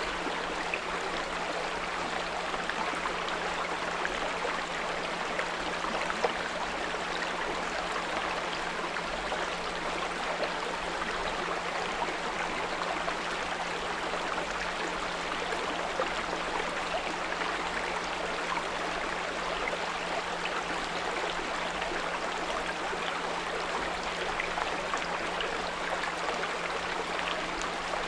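Small brook running steadily over stones with a continuous 174 Hz pure tone mixed in as a low, even hum under the water.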